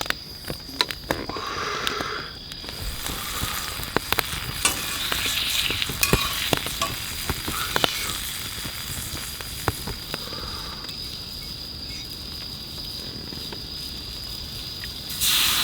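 Meat sizzling as it cooks over a campfire, with frequent sharp pops and crackles. A much louder hiss starts suddenly near the end.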